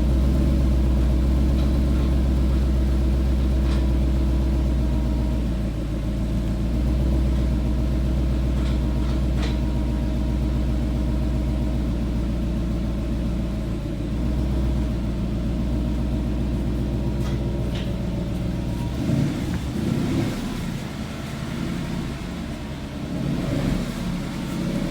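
Car engine running steadily just after a cold start, heard through its stock exhaust as an even low rumble. About 19 seconds in the sound changes, the deep rumble dropping away and the running turning rougher and less even.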